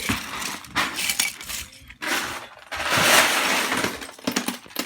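Loose plastic Lego bricks clattering and clicking against each other as they are sifted through, with a longer run of rattling starting about two seconds in.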